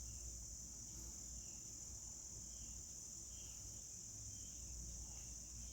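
Crickets in a steady chorus, a continuous high-pitched buzz, with a few faint chirps over it.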